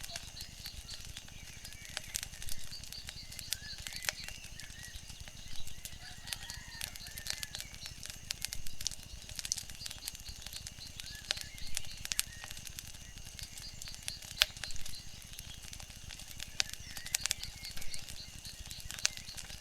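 Wood fire crackling, with frequent sharp irregular pops over a steady low background hiss, and faint bird calls now and then.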